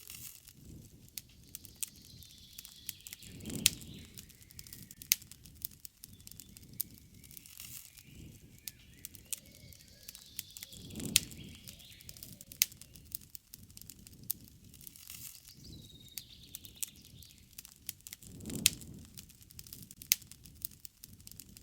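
Wood campfire crackling, with sharp pops scattered throughout, while birds chirp in the background. A low rushing sound swells three times, about every seven and a half seconds.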